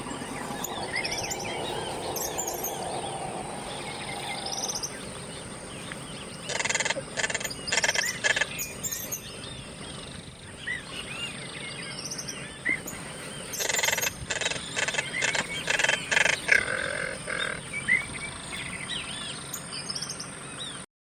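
Birds chirping outdoors with many short high calls, and two spells of rapid sharp chattering calls, near a third of the way in and again past the middle, over a steady high-pitched whine. The sound cuts off suddenly near the end.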